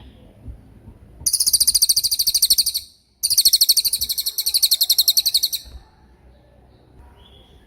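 Cililin bird singing its 'tembakan' song: two long, very high-pitched trills of rapidly repeated notes, each about two seconds, separated by a brief pause.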